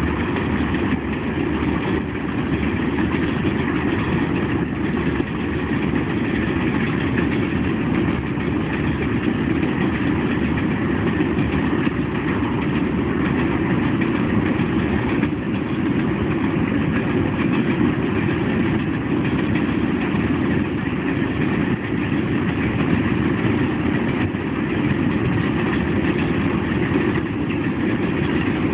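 Freight cars of a long train rolling past: steel wheels on the rails make a steady noise that does not let up.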